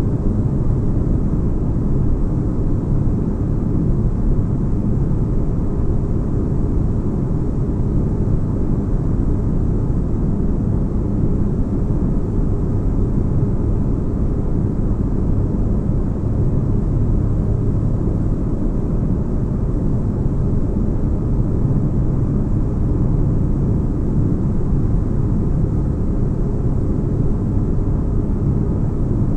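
Synthetic spaceship-interior ambience: a steady, deep rumbling drone with a faint hum, unchanging throughout, like a starship's engines heard from inside a cabin.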